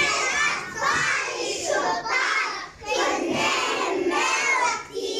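A group of young children singing a chant-like song together in unison, in short phrases of about a second each.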